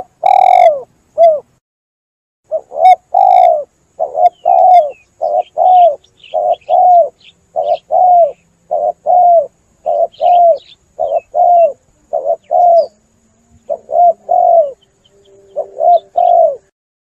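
Spotted dove (tekukur) cooing: a long run of short, mellow coo notes, about two a second and often in pairs, with brief breaks near the start and about two-thirds of the way through. Faint high chirps from another bird sound behind it in places.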